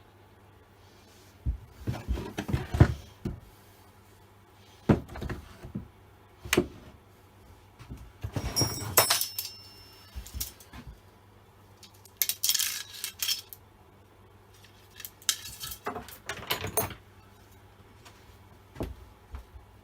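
Chainsaw parts and hand tools being handled at a workbench: irregular bursts of metal clinks, clatters and jangling, with a faint steady low hum underneath.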